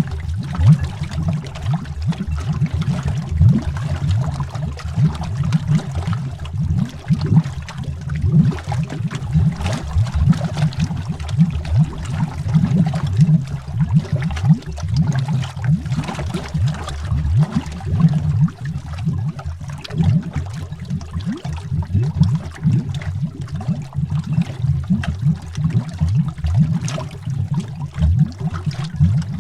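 Underwater bubbling: a continuous stream of air bubbles rising through water, heard as many small overlapping low pops and gurgles.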